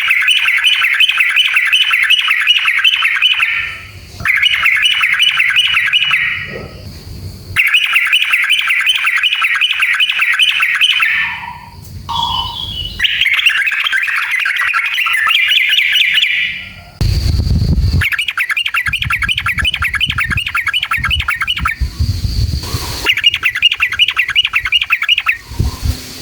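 Yellow-vented bulbul singing a long, rapid rolling trill of fast repeated chattering notes, delivered in phrases of three to four seconds with short breaks between them.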